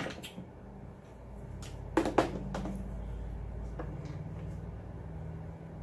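A few sharp clicks and knocks of small parts and tools being handled on a workbench, one at the start and a quick cluster about two seconds in, over a low steady hum that comes up about a second in.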